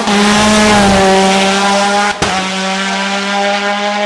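Hill climb race car engine at high revs, loud and close, its pitch dipping slightly soon after the start as it comes by. A sharp momentary cut about two seconds in, like a gear change, before the engine note carries on.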